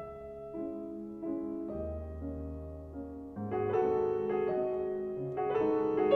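Background music: a slow piano piece, single notes over a deep bass that grows fuller a few seconds in.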